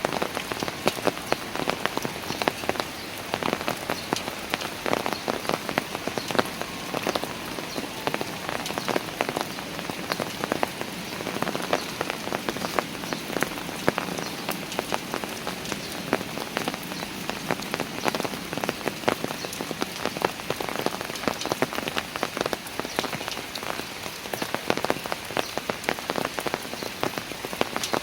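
Steady rain falling on park steps, a constant hiss with many close drops tapping and splashing.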